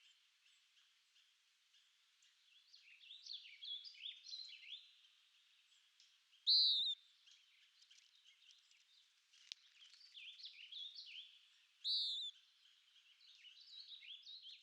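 Several small songbirds chirping and twittering in quick, high notes, with one louder slurred whistle about six seconds in and again about twelve seconds in.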